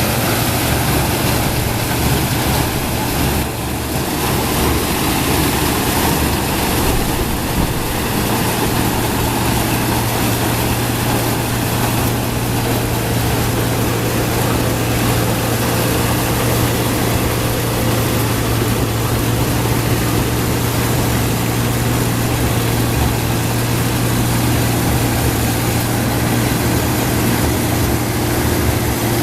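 1977 Gleaner F2 combine running steadily while harvesting corn with a 430 corn head: a loud, unbroken engine drone under a dense wash of machinery noise.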